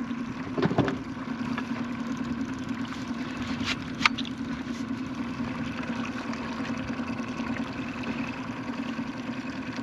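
Boat motor running steadily at trolling speed, with a sharp click about four seconds in.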